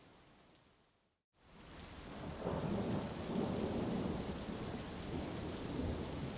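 Heavy rain fades down to a moment of total silence about a second in. It then fades back up, and a long low rumble of thunder rolls in under the steady hiss of rain.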